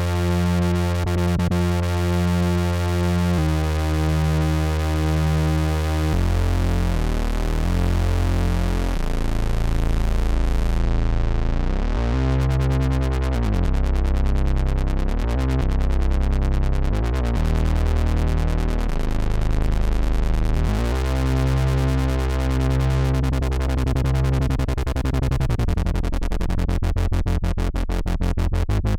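Moog Messenger monophonic analog synthesizer playing a deep, sustained bass line, the notes changing every second or few, some sliding in pitch, with a fast pulsing rhythm near the end.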